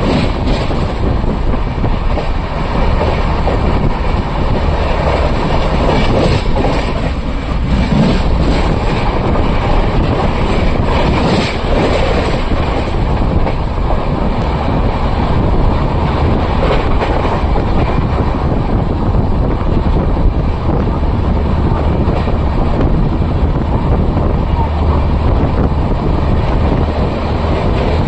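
Wheels of the Humsafar Express passenger train running on the rails: a loud, steady rumble of the track sound that carries on without a break.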